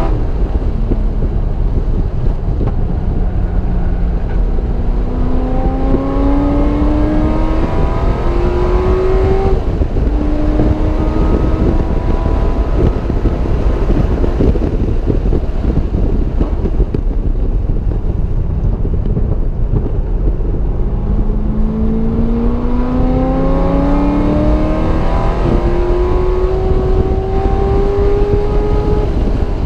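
Car engine at full throttle on a race track, its note climbing in long rising sweeps as it pulls through the revs, breaking off and dropping between pulls. A stretch in the middle has no clear engine note, and a heavy steady rumble of wind and road noise runs under it all.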